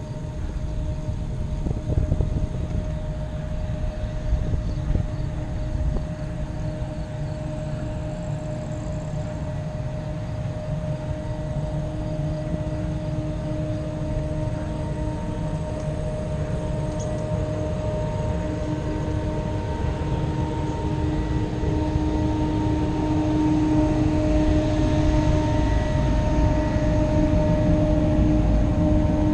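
Wind buffeting a helmet-mounted action camera's microphone while riding a recumbent bicycle: a continuous low rumble, with a steady hum underneath that gets a little louder in the second half.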